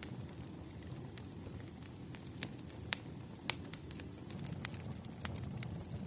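Wood fire crackling: irregular sharp pops and snaps over a low, steady rumble, with the loudest pops about halfway through.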